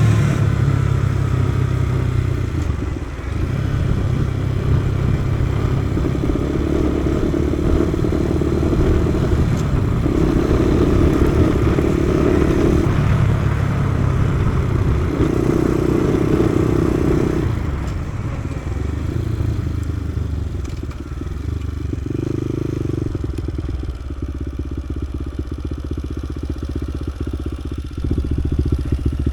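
Kawasaki KSR110's single-cylinder four-stroke engine running on the road, its note rising and falling with throttle and gear changes. It eases off after about eighteen seconds and picks up again near the end.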